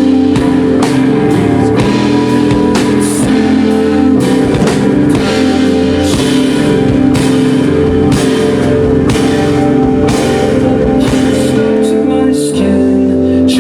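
Rock band playing loud, with a drum kit beating a steady rhythm under sustained guitar chords.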